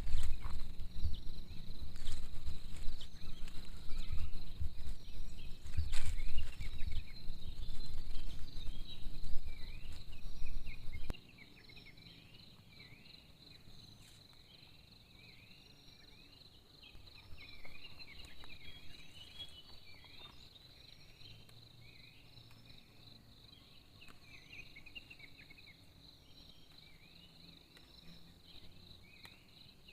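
Forest insects trilling steadily, with many short chirping calls. For about the first eleven seconds, loud low thumps and rustling lie over them and then stop suddenly.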